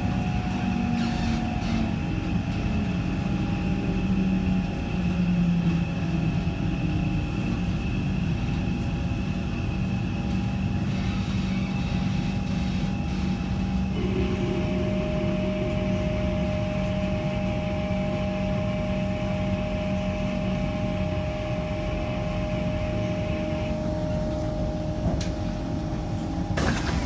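Kawasaki C151 metro train heard from inside the car: a steady low rumble with several held electric whining tones. About halfway through the tones shift to a new pitch, and they drop out a few seconds before the end.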